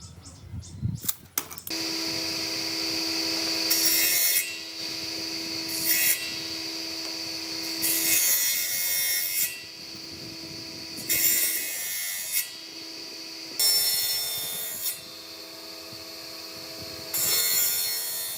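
An electric woodworking power tool starts running about two seconds in with a steady whine. It cuts into wood in six louder passes, each lasting about a second, two to three seconds apart. A few knocks come just before it starts.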